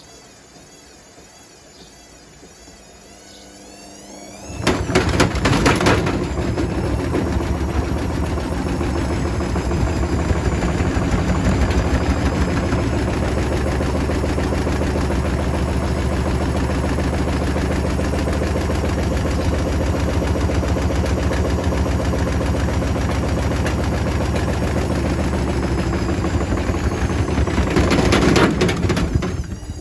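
Hotpoint Smart Tech WMFUG742 washing machine drum turning with bricks and a concrete patio block inside: a sudden start about four seconds in, then about 25 seconds of rapid, continuous clattering and banging over the drum's rumble, stopping just before the end. The block is hammering the drum hard enough that the owner fears it will eventually smash the door glass.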